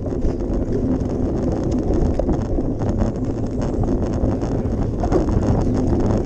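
Wind buffeting a small action camera's microphone, a steady low rumble with no speech.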